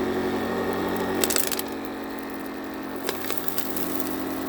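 Shark two-speed carpet sweeper's motor and brush running steadily on its higher speed, with crackling and rattling as kitty litter and sand are swept up, loudest about a second in and again near three seconds.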